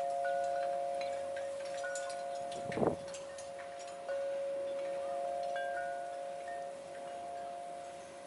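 Wind chime ringing in the wind: two steady low tones hang on while lighter, higher tinkles come and go. A short burst of noise comes just before three seconds in, and a fresh strike renews the ringing about four seconds in.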